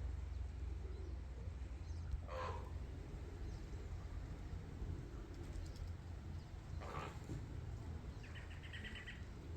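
A bird calling: two short falling calls a few seconds apart, then a brief rapid chatter near the end, over a steady low rumble.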